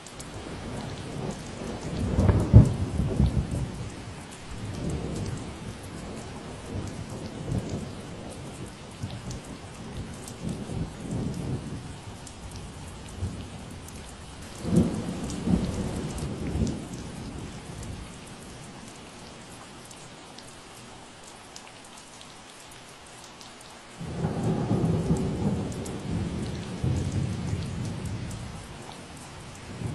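Steady rain falling, with three long, low rolls of thunder: the loudest about two seconds in, another near the middle, and one that sets in abruptly near the end.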